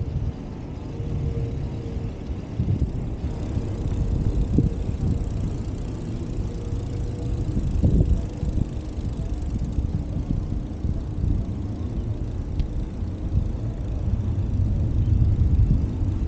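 Wind buffeting the microphone and road noise during a bicycle ride, a gusty low rumble. A faint steady hum runs through about the first half.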